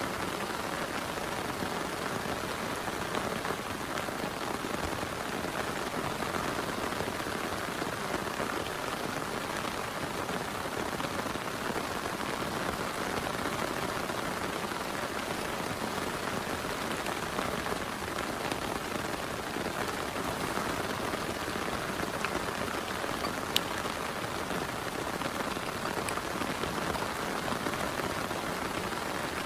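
Steady heavy rainfall, an even hiss of drops with no lulls. One sharp tick stands out about two-thirds of the way through.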